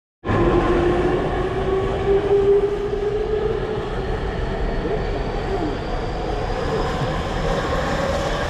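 Tokyu electric commuter train running at the platform, with a rumble and a motor whine that slowly rises in pitch as the train gathers speed.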